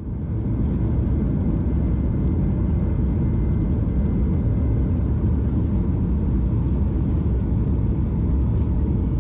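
Boeing 737-800 cabin noise on the takeoff roll: a steady, loud rumble of the CFM56 engines at takeoff thrust with the wheels on the runway. It fades in at the start and fades out near the end.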